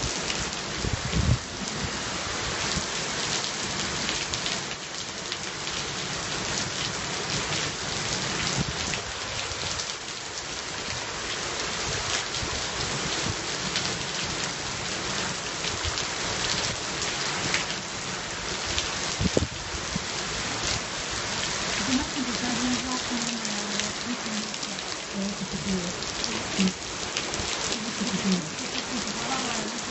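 Steady rain falling, with a dense pattering of individual drops striking a surface close by.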